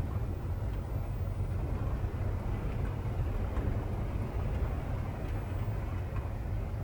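Typhoon wind and heavy rain outside a kei-truck camper: a steady low rumble with a wash of noise and a few faint ticks.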